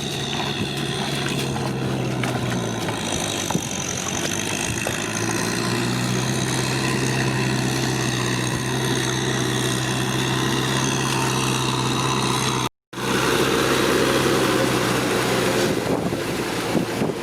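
Tractor engine running steadily in a rice field, with a short gap in the sound about thirteen seconds in.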